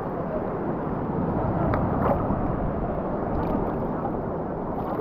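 Sea water washing and splashing close to the microphone, a steady rush with a few small splashes about two seconds in.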